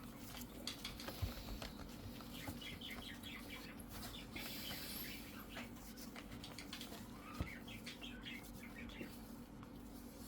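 A tissue soaked in isopropyl alcohol rubbing over a laptop's plastic case, giving a run of faint, short squeaks as sticky residue is wiped off.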